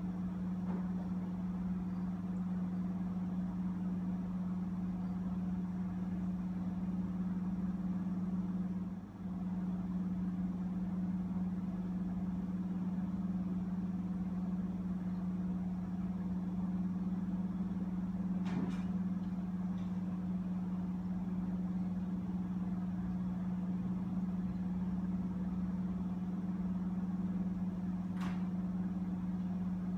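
A steady low mechanical hum, like a motor running, with a brief dip about nine seconds in and two faint clicks later on.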